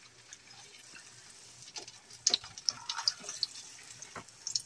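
Glutinous rice pancakes frying in shallow hot oil in a nonstick pan: a faint sizzle, with scattered sharp crackles and pops from about two seconds in.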